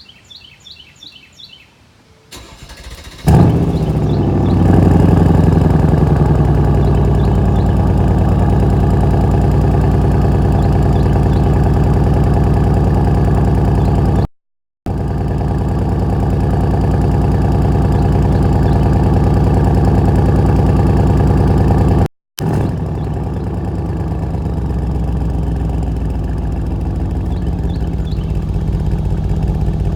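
A bird chirps, then a Mercedes-AMG E63 S's twin-turbo V8, its exhaust resonators deleted, cranks briefly and fires about three seconds in with a loud flare. It settles into a steady cold-start idle while the bird goes on chirping faintly. The sound cuts out completely twice for a moment, near the middle and about two-thirds through.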